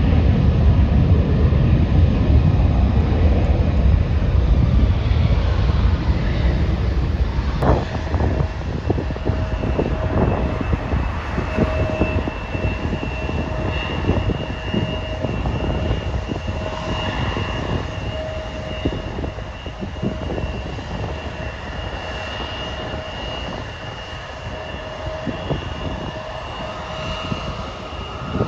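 Jet airliner engines: a loud low rumble for the first several seconds that slowly fades, with a steady high whine carrying on underneath.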